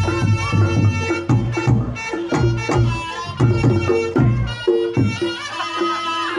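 Reog Ponorogo gamelan playing: a slompret reed shawm carries the melody over kendang drum strokes and repeated kenong and kempul gong tones, the shawm bending its pitch near the end.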